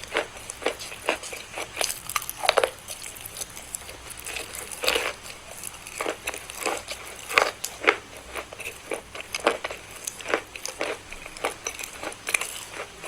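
A person biting and chewing crunchy edible chalk of the 'Melo 2 face cruncher' kind, making irregular sharp crunches several times a second.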